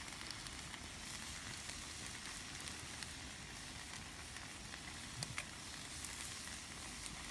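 Food sizzling steadily in a frying pan over a wood campfire, with scattered crackles and pops, a couple of them louder about five seconds in.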